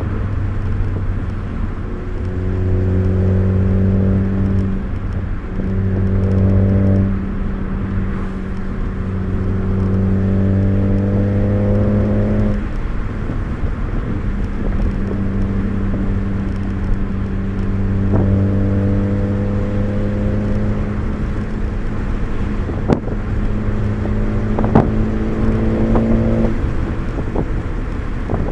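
A four-cylinder car engine heard from inside the cabin on a hard drive, pulling with its pitch climbing slowly in stretches that break off at gear changes or lift-offs. A couple of sharp clicks come near the end.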